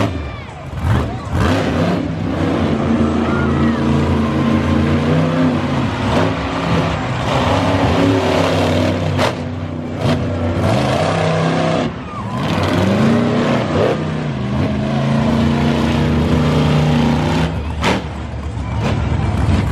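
Monster truck engines racing at full throttle, the engine note rising and falling with repeated revving surges, with a few sharp bangs.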